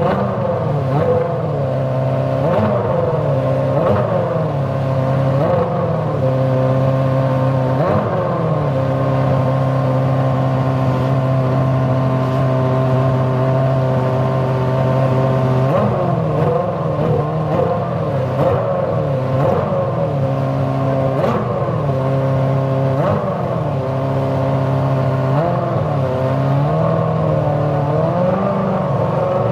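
Ferrari F60 Formula One car's 2.4-litre V8 being warmed up while stationary: a steady high idle, with the throttle blipped in short revs over and over. The revving stops for several seconds in the middle, then picks up again.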